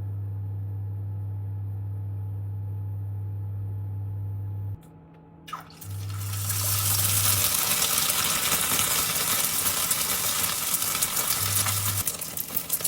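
A low steady hum, then a click about five and a half seconds in, after which water runs hard and steadily from a tap into a sink.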